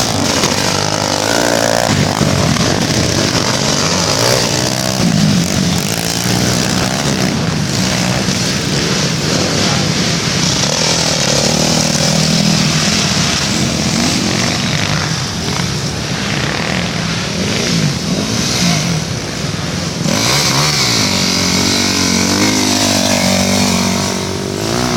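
Dirt bike engines racing, revving up and dropping off again and again, with several bikes overlapping.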